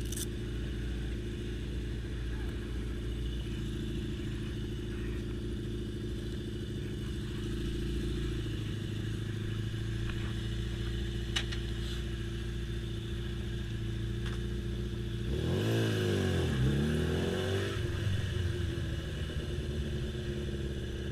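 Motorcycle engine, likely the rider's Yamaha XJ6 inline-four, idling steadily; about 15 seconds in the revs rise and fall for a couple of seconds, then settle back to a steady idle.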